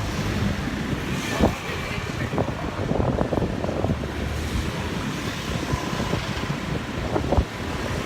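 Wind buffeting the microphone on a moving motorbike, a gusty rumble, with traffic noise underneath.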